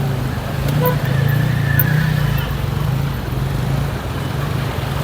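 A motor vehicle engine running steadily close by, a low, even hum with a slight pulse.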